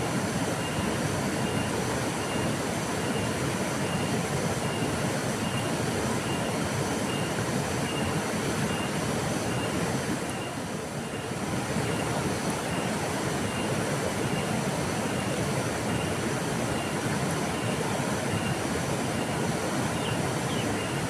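River water flowing in a steady, even rush, dipping slightly for a moment about halfway through.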